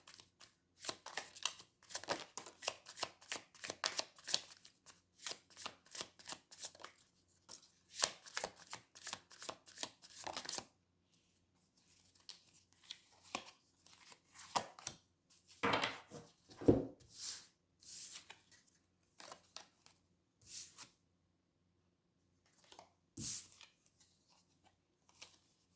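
A deck of tarot cards being shuffled by hand: a quick run of flicking card clicks for about ten seconds, then scattered single taps and slides of cards.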